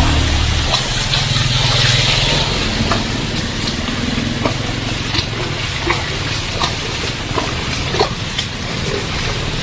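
Heavy rain falling steadily, with scattered sharp drips and splashes. A motor vehicle's engine runs low underneath for the first two seconds or so, then fades.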